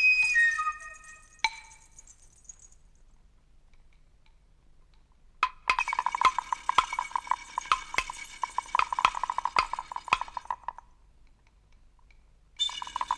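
A hand-shaken percussion rattle of small hard pieces clattering and clinking together in a rapid jangle for about five seconds, stopping, then starting again near the end. It comes after a short tail of whistle-like flute tones that fades out at the start.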